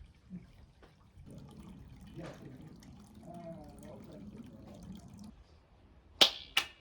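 Two sharp claps about half a second apart near the end, after a few seconds of faint murmuring voices.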